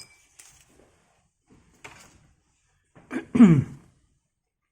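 A man's short voiced sigh, falling in pitch, about three and a half seconds in, preceded by a few faint handling clicks.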